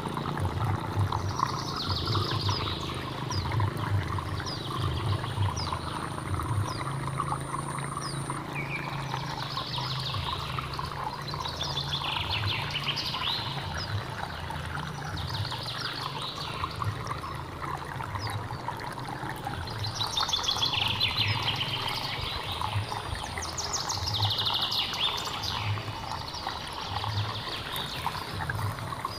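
Water flowing steadily with a low, choppy churning underneath, while birds sing short chirping phrases above it every few seconds, most densely around the middle and near the end.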